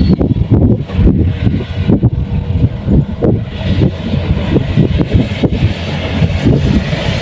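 Kubota combine harvester's diesel engine running with a heavy, uneven low rumble, while a hiss grows stronger about halfway through.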